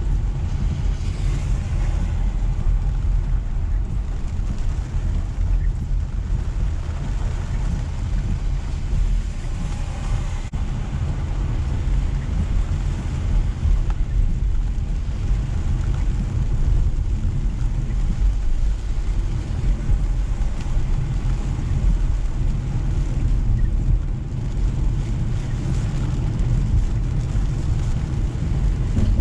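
Car driving through steady rain: a constant low rumble of road and engine with an even hiss of rain and wet tyres.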